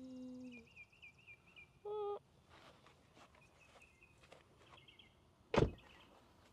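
Outdoor ambience with birds chirping and light clicks and knocks, a steady pitched tone that stops about half a second in, a short tone near two seconds, and one sharp heavy thump about five and a half seconds in, the loudest sound.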